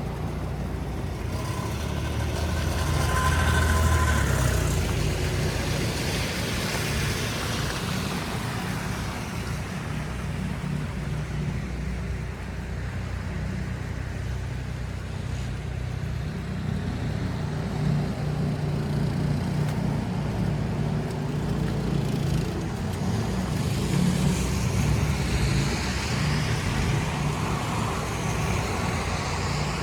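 City street traffic over a steady low rumble. One vehicle passes loudly, peaking about four seconds in, and another passes near the end.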